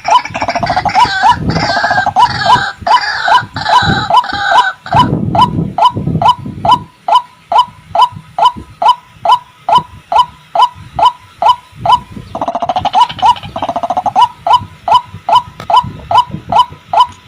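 White-breasted waterhen (ruak-ruak) calling: a monotonous run of short, hooked notes, about two and a half a second. In the first five seconds, and again about 13 seconds in, a harsher, denser chorus of croaking calls with low grunts joins it.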